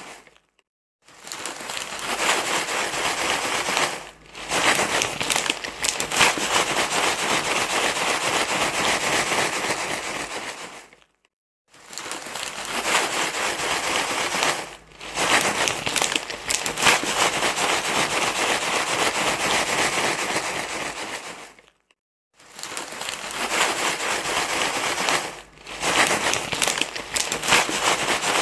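Continuous crinkling rustle, dense and crackly, played as a loop for soothing a crying baby. It comes in stretches of about ten seconds broken by brief silences, with the same pattern repeating roughly every ten and a half seconds.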